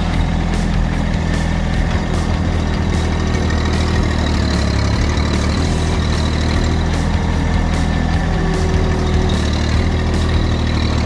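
Massey Ferguson tractor engine running steadily at a constant speed, with no change in pitch.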